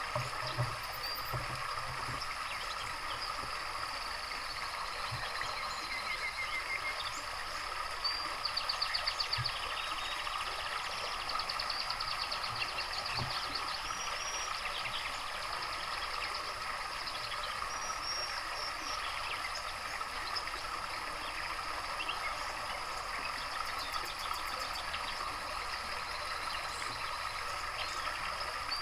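Steady trickle of running water, with small songbirds chirping and giving short, fast trills over it now and then; the loudest trill comes about a third of the way in.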